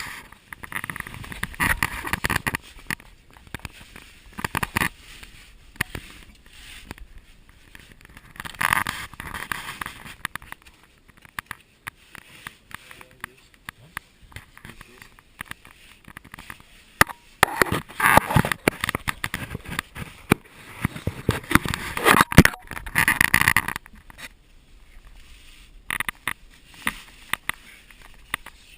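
Irregular scraping and rustling with sharp clicks, mixed with indistinct bursts of voices; the loudest stretch comes about two-thirds of the way through.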